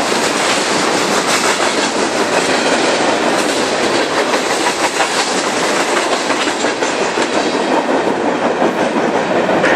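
A train passing close by, its wheels clattering steadily over the rails.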